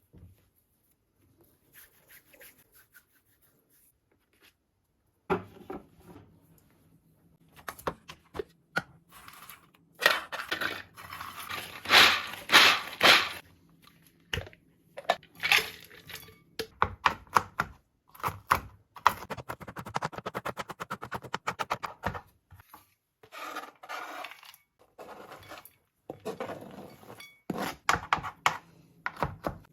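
Kitchen food-preparation noises of hands and utensils: rubbing and scraping with scattered knocks, starting about five seconds in after a near-silent start.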